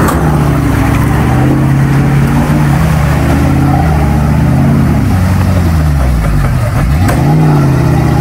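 Off-road vehicle's engine revving hard, its pitch rising and falling; it drops sharply about six and a half seconds in, then climbs again.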